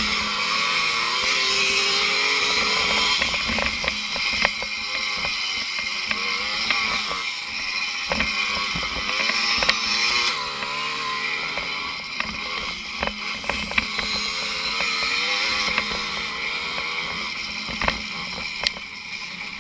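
Small two-stroke motorcycle engine heard from on board, its pitch rising and falling as the throttle is worked around the course. There is wind rush over the microphone and scattered knocks from the bumpy grass track.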